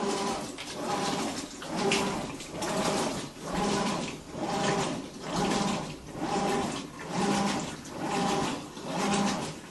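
Whirlpool Cabrio top-load washer making a loud, rhythmic humming whine with a watery hiss. It swells and fades a little more than once a second, and the owner questions whether it is normal.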